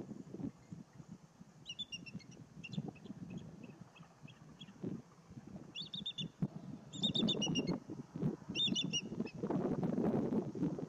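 A songbird singing: a run of chirps about two seconds in, then three short bursts of chirps, over a low rustling noise that grows louder near the end.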